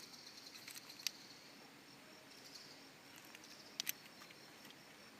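Faint insects chirring steadily, with a sharp click about a second in and a quick double click near four seconds.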